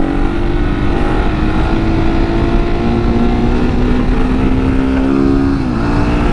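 Supermoto motorcycle's single-cylinder engine running under way at a steady, slowly changing pitch, with heavy wind rumble. The engine note shifts a little about five and a half seconds in.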